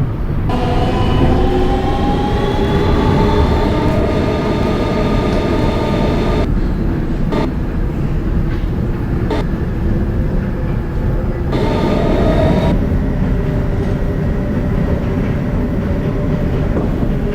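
R160B Siemens subway train running between stations over a steady wheel-on-rail rumble, its traction motors whining with several tones. The whine climbs in pitch over the first few seconds as the train accelerates, drops away about six and a half seconds in, comes back briefly near twelve seconds, then carries on at a lower pitch.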